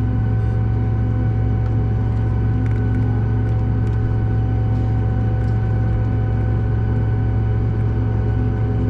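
Steady cabin drone inside a Boeing 737 MAX 8 on the ground: a deep, even hum with a few thin, constant whining tones above it, holding level throughout.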